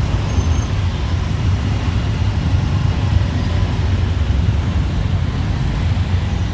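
Steady din of dense city traffic, motorbike and car engines mixed into a continuous low rumble.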